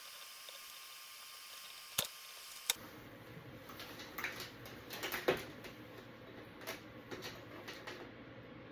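Two sharp clicks about two seconds in, then a string of light, irregular taps and clicks: small tools and parts being handled on a workbench.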